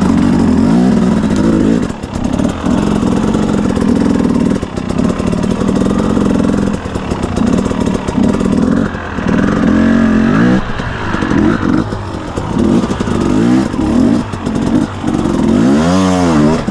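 2017 KTM 250 EXC two-stroke dirt bike engine revving hard in repeated bursts, the revs rising and falling and briefly dropping off between throttle openings as it struggles for grip, with a quick rev up and down near the end.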